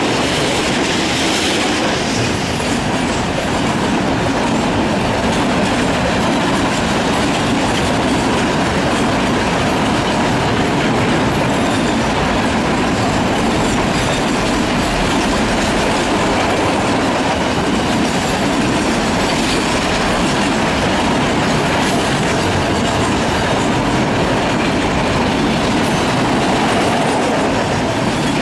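Freight train passing close by: GM SD40-2 diesel locomotives going by at the start, then a long string of open-top freight wagons rolling past, their wheels making a steady, loud noise on the rails.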